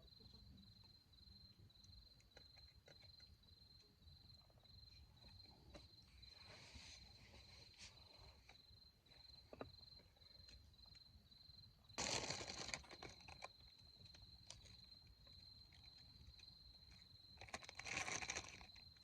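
Faint outdoor campsite quiet with a steady high-pitched chirring tone throughout, broken by two short louder bursts of rustling noise, one about two-thirds of the way in and one near the end.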